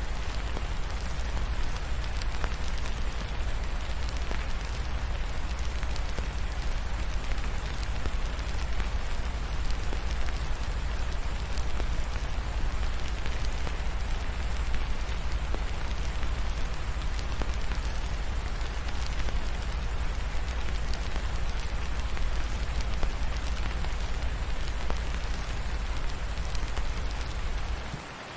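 Steady rain falling, mixed with a fireplace crackling in many small scattered ticks over a deep low rumble. Just before the end the low rumble cuts out and the sound drops noticeably quieter.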